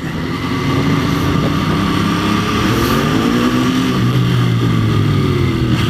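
Motorcycle engine running under way as the bike pulls off; its pitch rises around the middle and then eases back down.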